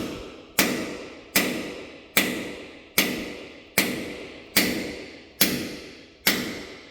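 A hammer striking the steel pin of a concrete anchor bolt, a steady blow a little more than once a second, each hit ringing out. The pin is being driven to set and expand the anchor for a vehicle lift post.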